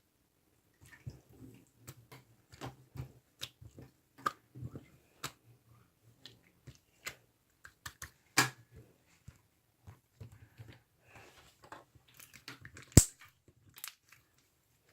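Pearl gel slime, a jelly-like gel block, being squeezed and pressed by hand: an irregular string of sticky clicks and small wet pops, with one sharp loud snap near the end.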